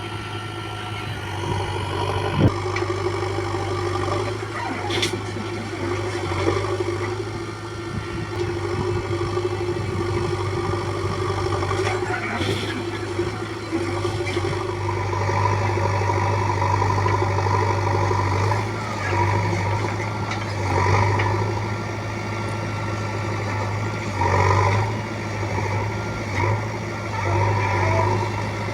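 Heavy diesel engine running with a steady low drone, rising and falling in level over and over in the second half as it works. Sharp knocks come about two seconds in and again around twelve seconds.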